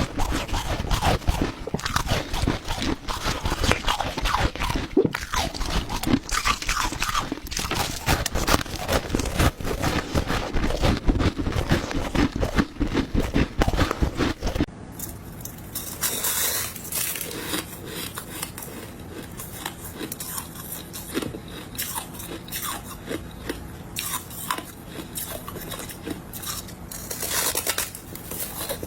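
Close-miked crunching of ice being bitten and chewed, a dense run of cracking crunches. About halfway through it cuts abruptly to a quieter stretch of lighter, sparser crunching.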